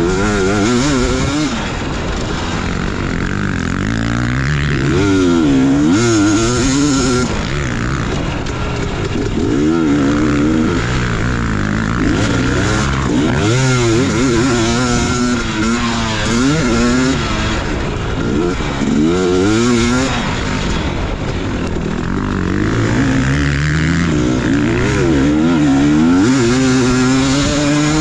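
Dirt bike engine revving hard and easing off over and over, its pitch climbing and dropping with each burst of throttle and gear change as the bike is ridden around a motocross track.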